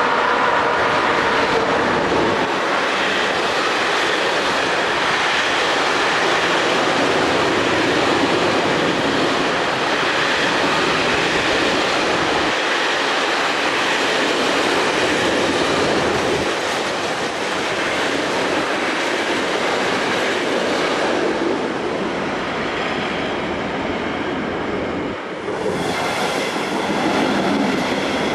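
A freight train, hauled by two CFL class 3000 electric locomotives, passes close by at speed, followed by a long run of loaded flat wagons rolling over the rails with steady noise. Near the end a second train, a double-deck passenger train, comes past on the nearer track and takes over the sound.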